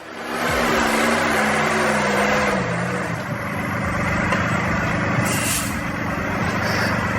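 A heavy vehicle's engine running, its pitch falling over the first three seconds, with a steady rushing noise over it.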